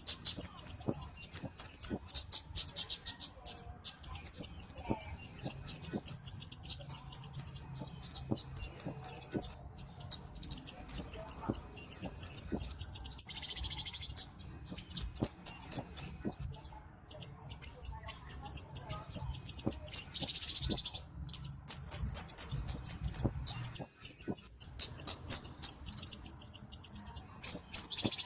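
A flowerpecker (kemade, 'cabe-cabean') singing in rapid runs of very high, thin chirping notes. Each bout lasts a second or two and repeats over and over with short pauses.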